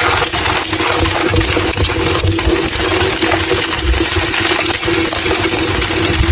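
Blocks of gym chalk being crushed and crumbled, a dense run of crunching and crackling with many small crisp clicks, over a steady low hum.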